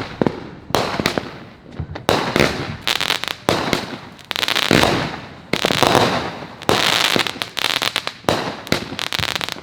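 Consumer firework mortar shells going off in quick succession, a sharp bang about every second. Dense crackling fills the gaps in two stretches, early on the second half and across the middle.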